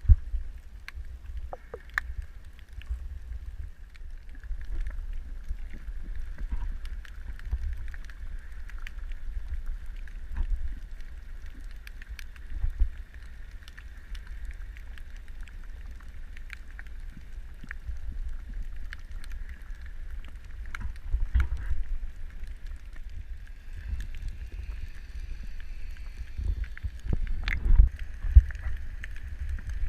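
Underwater camera audio: a low rumble of water moving against the housing, with a faint steady whine higher up and many scattered short clicks and crackles. The rumble swells several times, most strongly near the end.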